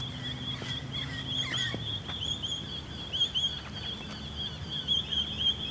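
Small birds chirping steadily, a dense run of short, high, repeated calls overlapping one another.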